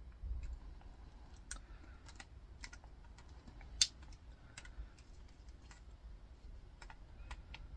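Cutters clipping through the copper winding of an air fryer's motor: irregular sharp clicks and snips, the loudest a sharp snap a little under four seconds in.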